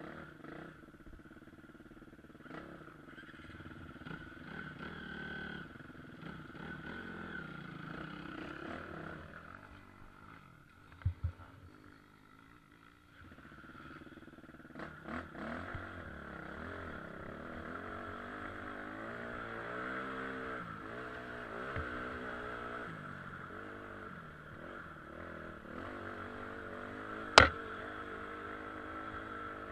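KTM EXC 250 dirt bike engine running and being ridden, its pitch rising and falling with the throttle. It drops quieter for a few seconds in the middle, with two sharp knocks there, and one loud knock comes near the end.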